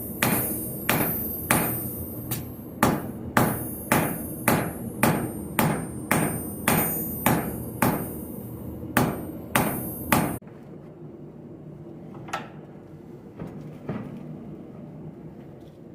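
Blacksmith's hammer striking steel on an anvil, roughly two ringing blows a second for about ten seconds, then stopping suddenly; after that a quieter background with a single knock.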